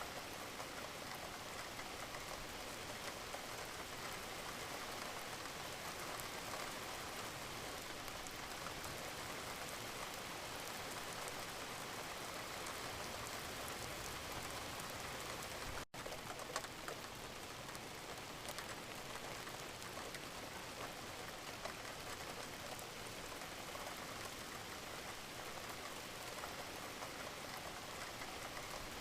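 Steady rain falling, an even hiss with scattered drop patter. It cuts out for an instant about halfway through.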